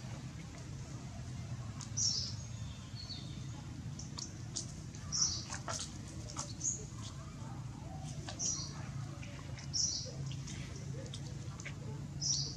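A bird calling repeatedly, short high chirps that sweep downward, one every second or two, over a steady low hum.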